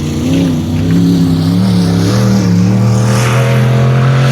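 Full-size pickup truck engine racing at high revs under heavy throttle. The pitch climbs and wavers in the first second or so, then holds steady.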